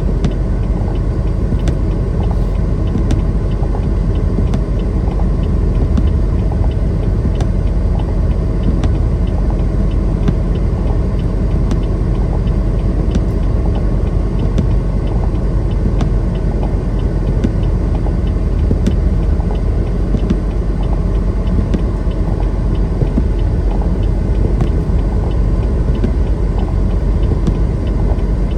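Semi truck driving at steady speed: an even, unchanging low rumble of engine and road noise, with faint scattered ticks.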